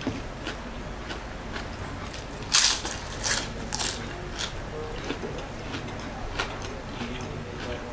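Crisp crunching of fried lumpia shanghai being bitten and chewed: one loud crunch about two and a half seconds in, then a string of softer crunches spaced about half a second to a second apart.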